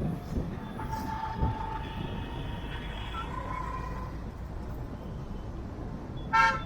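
Road traffic heard from a moving car: a steady rumble of engine and tyres with a few thumps, faint horns in the distance, and one short, loud horn honk near the end.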